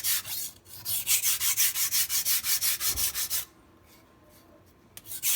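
MAC chef knife blade stroked rapidly back and forth on a sharpening stone: a fast, even run of gritty scraping strokes, about six a second. The strokes stop about three and a half seconds in and start again near the end.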